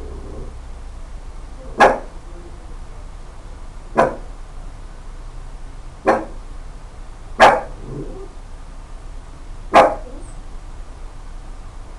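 A dog barking five times, single sharp barks about two seconds apart.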